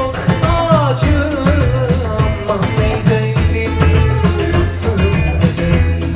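Live Turkish psychedelic folk-rock band playing: a steady drum-kit beat and bass under a wavering, bending melody line with singing.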